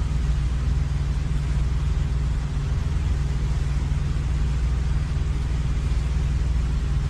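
Semi-truck diesel engine idling steadily, a constant low rumble.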